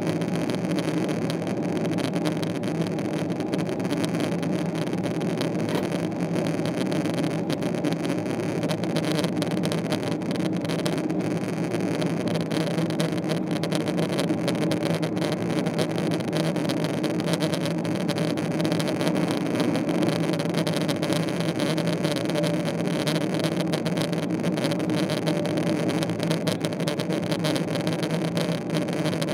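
Boeing 777-300ER's GE90-115B turbofan engines heard from inside the passenger cabin: a steady, even drone with a low hum and rushing noise over it.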